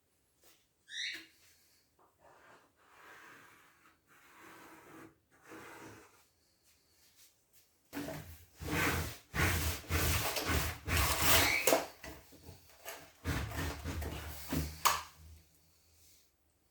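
Rubbing and scraping strokes, faint at first, then a loud rapid series lasting about seven seconds, with a short squeak falling in pitch about a second in.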